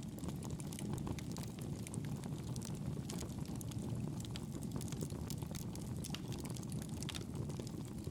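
Campfire burning: a steady low rumble of flames with frequent sharp crackles and pops from the burning wood.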